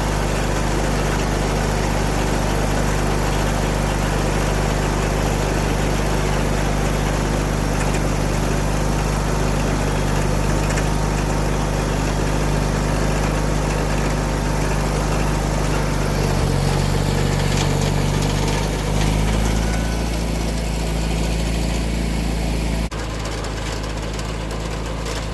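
John Deere 317 garden tractor engine running steadily at idle, its pitch shifting briefly about two-thirds of the way through. The sound changes abruptly near the end.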